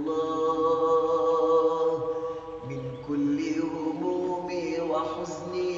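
Wordless interlude of a nasheed: chanted vocal tones in long held notes, each lasting about two to three seconds before moving to a new pitch.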